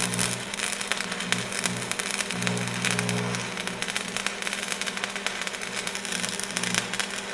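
Car engine idling steadily with a low rumble, under crackling noise.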